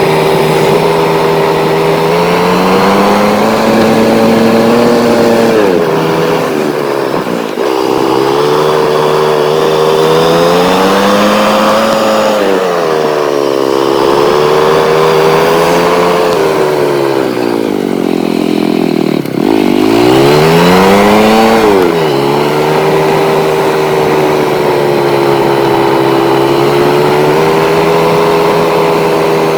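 Motorcycle engine running while riding, its pitch climbing and falling several times as the revs change, with two sudden drops (about seven and nineteen seconds in) and steady cruising stretches between.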